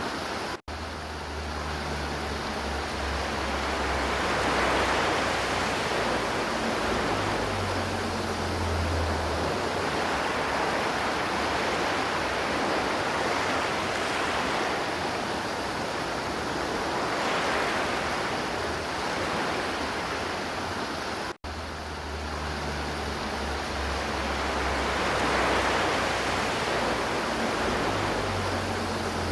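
River water rushing and flowing in a steady, full wash of noise that swells gently now and then. It cuts out for an instant twice, under a second in and again about 21 seconds in, where the looped recording starts over.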